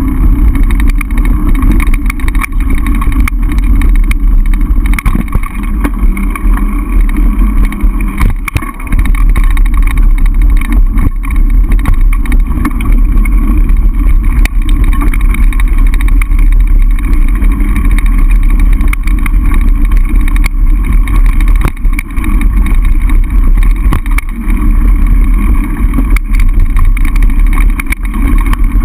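Mountain bike descending a trail, heard as loud, steady wind roar on the camera's microphone, with frequent small knocks and rattles from the bike over rough ground.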